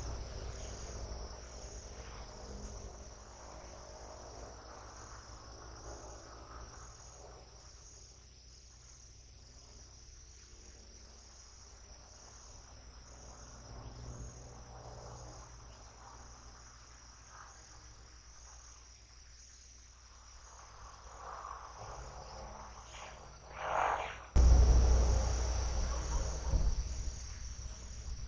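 Crickets chirping steadily in a high, finely pulsing trill over a low background rumble. A brief rising call comes about four seconds before the end, and the rumble then jumps suddenly louder.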